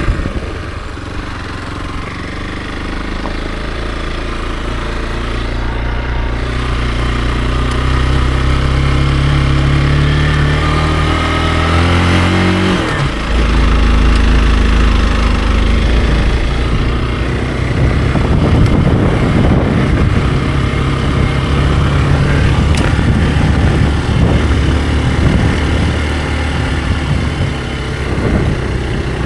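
Hero XPulse 200 4V's single-cylinder engine under way: the revs climb steadily for about ten seconds, then the pitch falls sharply into a lower, steadier running note for the rest of the ride.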